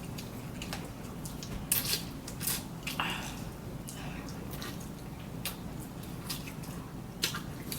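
Close-up mouth sounds of someone eating instant noodles: wet smacks and clicks of chewing, scattered about one or two a second.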